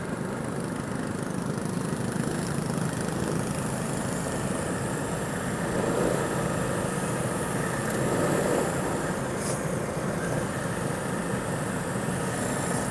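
Go-kart's small petrol engine running steadily, swelling slightly a couple of times.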